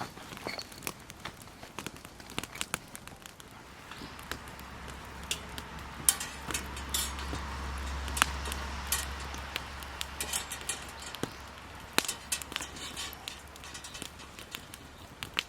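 Wood campfire crackling, with sharp snaps scattered irregularly throughout. A low rushing sound swells for several seconds in the middle and then fades.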